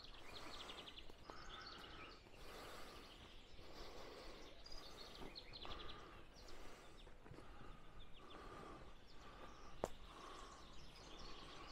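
Faint outdoor ambience with songbirds singing short repeated trills, and one sharp click about ten seconds in.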